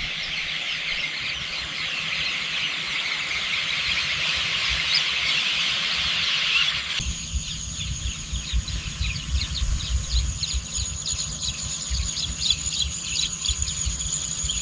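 Outdoor nature ambience of many birds chirping densely. About halfway through it switches abruptly to a different ambience, a steady high-pitched whine with scattered chirps and low rumble underneath.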